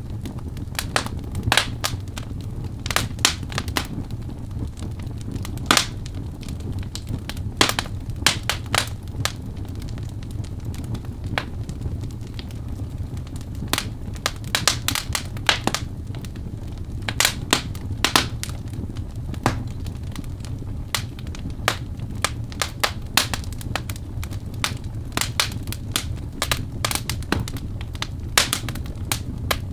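Wood logs burning in a fireplace: a steady low roar of flame with irregular sharp crackles and pops, sometimes several in a quick cluster.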